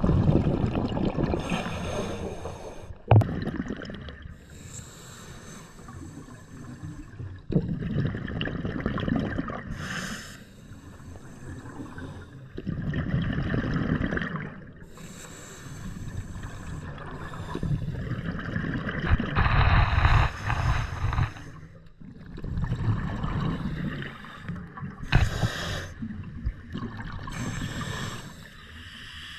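Scuba diver breathing through a regulator underwater: a short hiss on each inhale, then a rumbling rush of exhaled bubbles, repeating about every five seconds.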